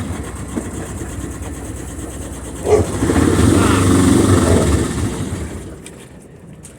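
Boat engine running, with a knock about three seconds in and a brief rise, then dying away and stopping near the end as the shift lever is pushed toward reverse. The owner thinks the lever, moved that far, hits the kill cutoff.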